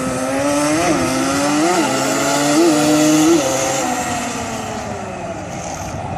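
Radio-controlled model car running at high revs, blipped up four times in quick succession, then a slowly falling pitch that fades.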